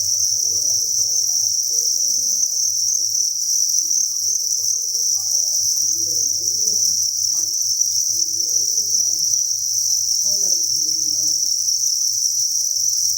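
Thousands of farmed crickets chirping together in a dense, steady high-pitched chorus that blurs into one continuous trill.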